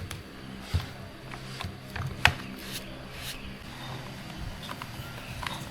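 A few short, light knocks, the loudest about two seconds in, over a faint steady low hum.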